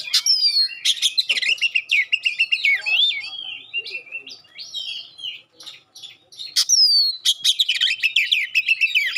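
Oriental magpie-robin singing a loud, varied song of rapid chattering notes and clear whistles. It has sharp falling whistles just after the start and again near seven seconds in, and a quieter stretch in the middle.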